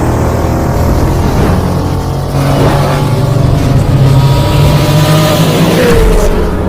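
A vehicle engine running loudly, starting suddenly, with a falling tone about six seconds in.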